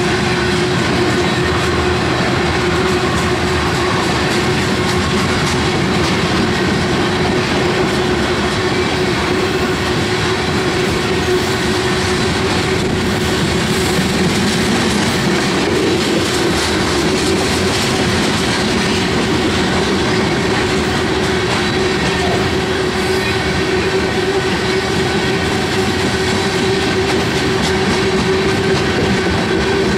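Freight train's open-top hopper cars rolling past: the steady rumble of steel wheels on the rails, with clicking from the rail and a steady hum underneath.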